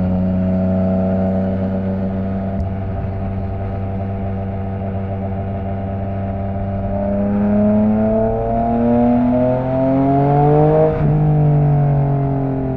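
Yamaha MT-09 three-cylinder engine running through an opened Akrapovic exhaust. It cruises at a steady pitch, then accelerates with a rising note for several seconds. About eleven seconds in it shifts up and the pitch drops.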